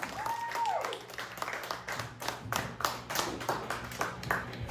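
A small audience clapping, with distinct separate claps rather than a dense roar of applause, and a brief whoop or whistle in the first second.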